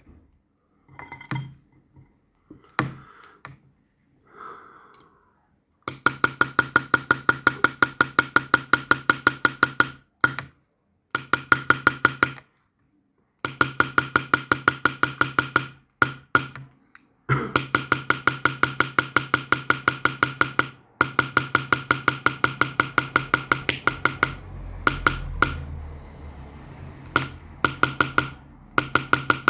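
Rapid, evenly spaced metal tapping, about seven strikes a second, with a steady ringing tone through each run, as in silver chasing or engraving work. The runs go on for several seconds and break off in short pauses. A few separate knocks come first.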